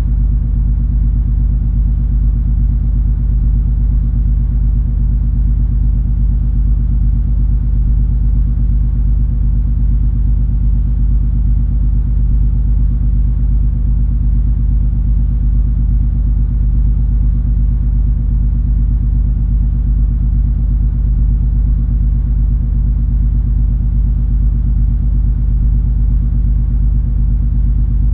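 Cruise ferry MS Color Magic's low, steady engine drone heard aboard: a deep rumble with an even hum on top, unchanging throughout.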